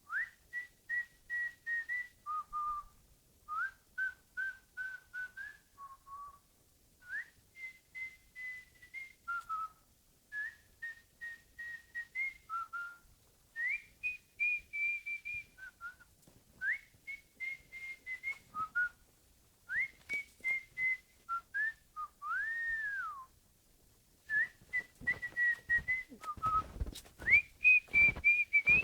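A tune whistled in short, repeated staccato notes that step between a few pitches in phrases, each phrase often starting with an upward scoop. Some low knocks come in near the end.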